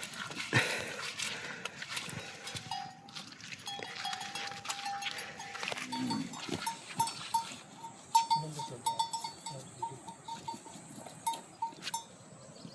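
A small livestock bell clinking in quick, irregular runs, after a steady high tone lasting a few seconds.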